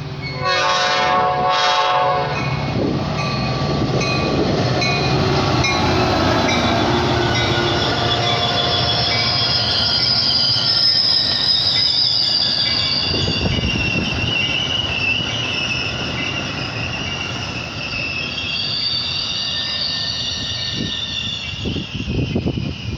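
Train horn blowing two blasts, a long one then a short one, then a train passing close by with its wheels squealing in high, wavering tones.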